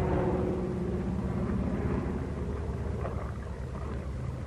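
Piston aircraft engines droning steadily: a low, even hum with a rushing wind noise over it.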